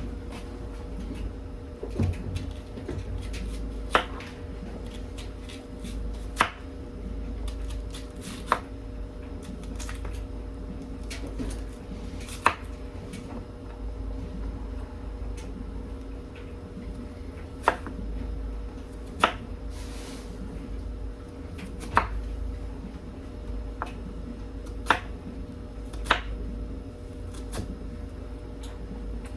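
Kitchen knife striking a cutting board while dicing onions, with about ten sharp, separate knocks spaced irregularly a second or a few apart. A steady low hum runs underneath.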